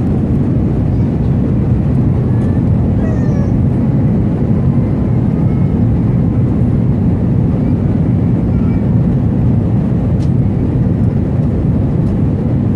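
Steady, loud cabin roar of an Airbus A319 in flight: engine and airflow noise heard inside the passenger cabin.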